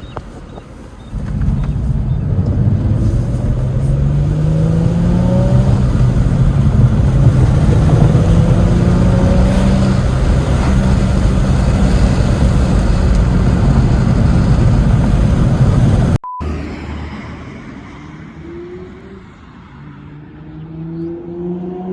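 2004 Infiniti G35's 3.5-litre V6 through a Motordyne TDX-2 Shockwave cat-back exhaust, pulling up through the revs in repeated climbs with breaks between, like accelerating through the gears. About two-thirds in the sound cuts abruptly to a quieter take, where the engine climbs in pitch again near the end.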